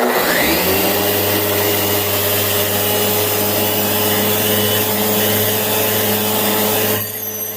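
Electric sander with a 6-inch abrasive disc spinning up with a brief rising whine, then running steadily while sanding a Corian seam: a steady motor tone and hum under loud hiss from the disc rubbing the solid surface. About seven seconds in the hiss drops sharply while the motor keeps running.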